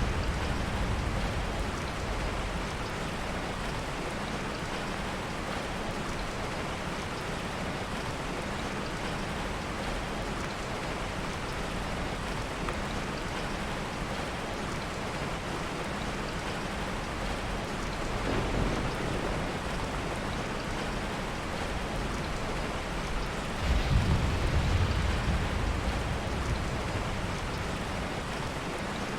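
Steady heavy rain, with soft low rolls of thunder: one fading out at the start, one about two-thirds of the way in, and a louder one shortly after.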